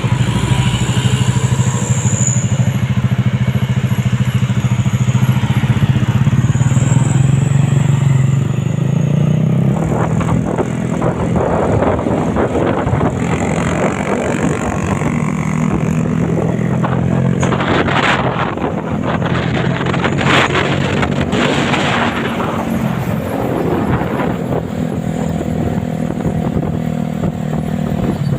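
Truck engine running with road traffic: a steady low engine hum at first, turning rougher and more varied about ten seconds in, with a few clattery knocks later on.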